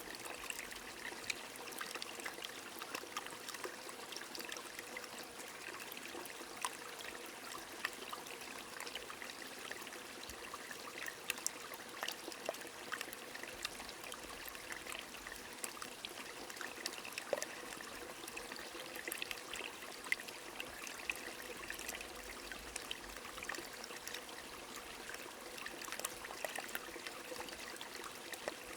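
A small stream running steadily, with rain falling: many scattered small drop ticks over the even rush of water.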